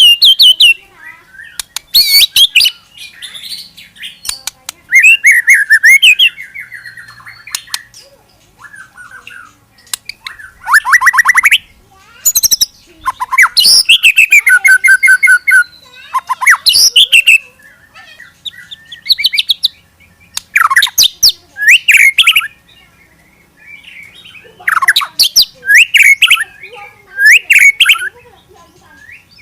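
Murai, a Copsychus songbird, singing loud, varied phrases of rapid whistles, trills and sharp chattering notes in separate bursts with short pauses. This is the kind of aggressive, fast-fire song that hobbyists play to make other caged murai sing back.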